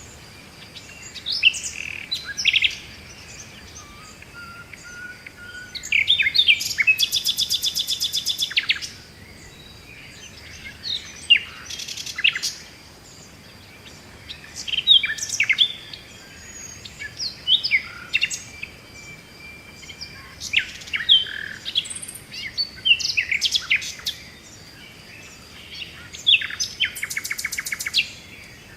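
Songbird singing: short phrases of chirps and whistles every few seconds, with a fast trill about seven seconds in and again near the end.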